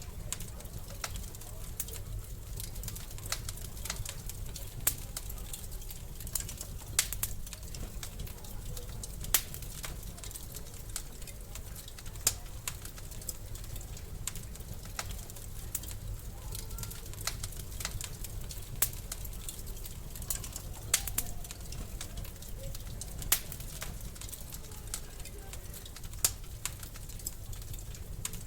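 Wood fire in a fireplace crackling: irregular sharp snaps and pops, a few noticeably louder, over a low steady rumble.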